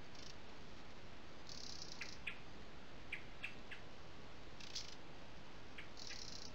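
Short, high bird chirps, a few scattered and several in quick succession, over a steady background hiss, with brief patches of higher hissing noise coming and going.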